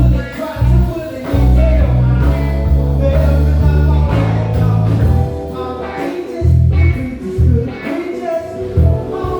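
Live band playing, with heavy bass notes, some held for seconds, under guitar or sax lines and possibly a singing voice.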